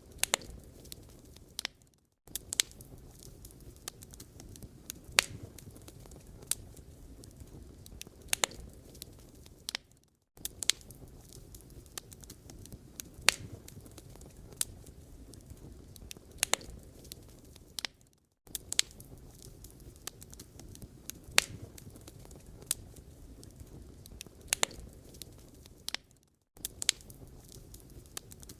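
Wood fire burning in a fireplace: irregular sharp crackles and pops over a low, steady rumble of flames. The sound drops out to silence for a moment about every eight seconds.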